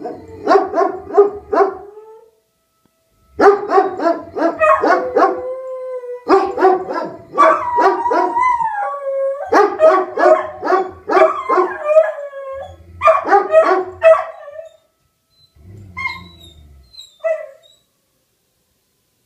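A beagle and a German shepherd barking and baying in quick runs, broken by a few drawn-out howls. They stop for a moment about two seconds in, turn faint late on, and fall silent near the end.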